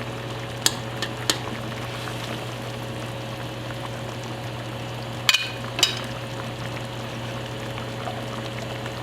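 Pot of peanut-thickened kare-kare sauce simmering, over a steady low hum, with a few sharp clinks of a utensil against the pot: two near the start and two about halfway through.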